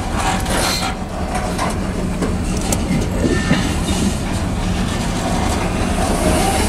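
Freight train's covered hopper cars rolling past steadily: a continuous rumble of steel wheels on rail with clickety-clack over the rail joints.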